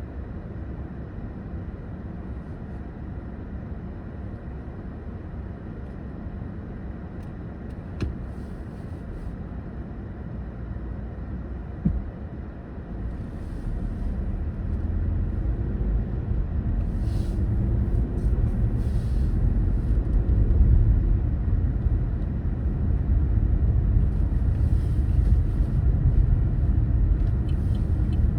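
A car driving: a steady low rumble of engine and tyres on the road that grows louder from about halfway through as the car picks up speed. There is a single sharp click about a third of the way in and a knock a little before the middle.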